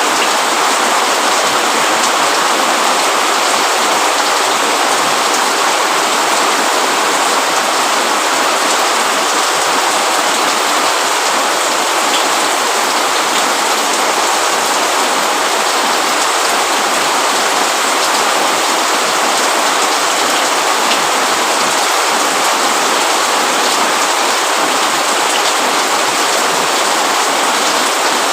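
Steady rain falling, an even hiss of drops with no let-up or change in strength.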